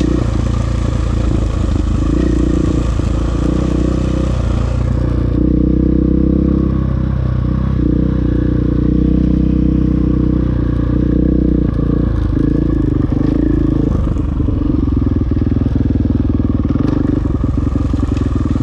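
KTM dirt bike engine running at trail speed, its pitch rising and falling as the throttle is worked over rough ground, with some clatter.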